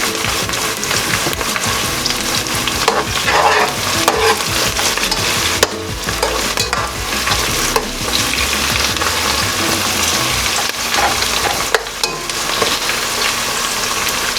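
Onion, green pepper and garlic frying in hot oil in a pan, a steady sizzle, with a spoon stirring and a few sharp clicks against the pan.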